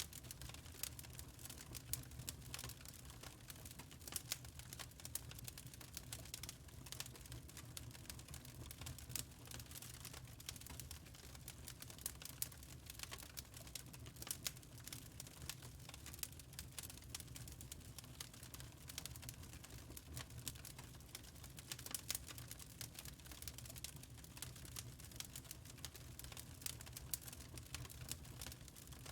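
Wood fire crackling in a fireplace: a faint, continuous scatter of small irregular pops and snaps over a low steady rumble.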